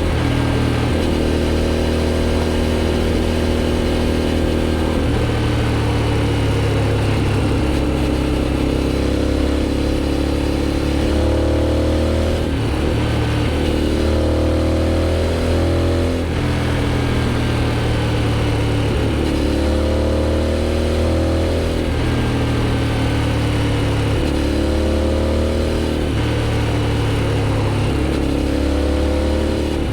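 Aprilia Shiver 750's 90-degree V-twin running through an aftermarket GPR exhaust under riding load. The engine note climbs in pitch and drops back about six times, as the bike accelerates through the revs and the throttle closes.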